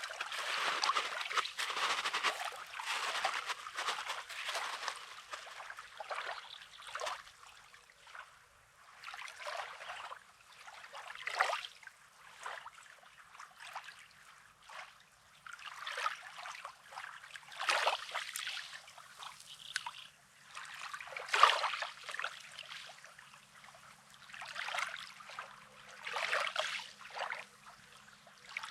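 Small sea waves lapping and washing on the shore, each swell rising and fading every few seconds, busiest in the first few seconds.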